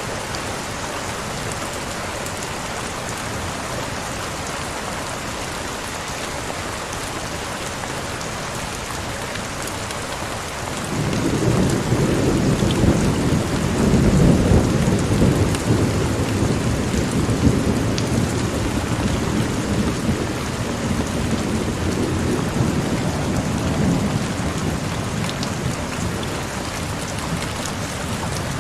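Heavy rain falling steadily, with a long roll of thunder that swells about a third of the way through, peaks a few seconds later and slowly dies away.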